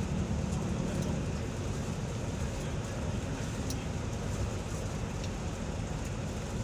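A moving vehicle's steady rumble of engine and road noise, with a few faint ticks over it.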